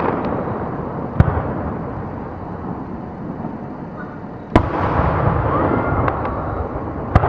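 Aerial fireworks bursting: three sharp bangs, about a second in, about four and a half seconds in and near the end, over a continuous rumble of other shells going off.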